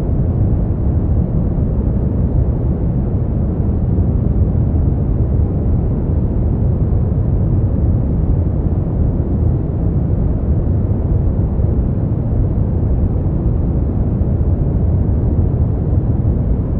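Steady brown noise: a deep, even rumble-like hiss, strongest in the low end and falling away toward the highs, with no changes or events.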